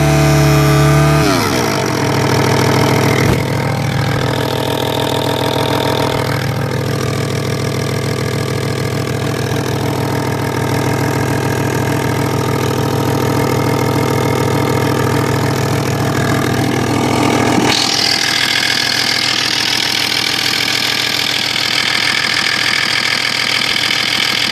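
Car engine, freshly overhauled along with its gearbox, revs briefly and drops back to a steady idle, with the chirring noise that appeared after the rebuild and whose cause the owner does not know. About 18 seconds in the sound changes abruptly, with less low rumble and more high-pitched noise.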